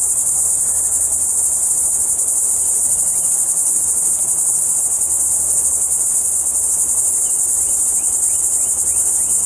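A dense, steady chorus of insects: a continuous shrill high-pitched hiss that does not let up.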